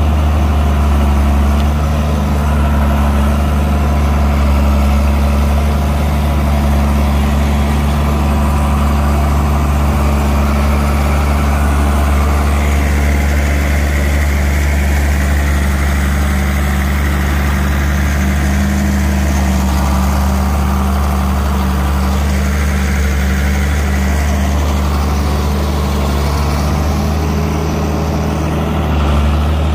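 A large vehicle engine running steadily at a constant speed with a deep, even hum.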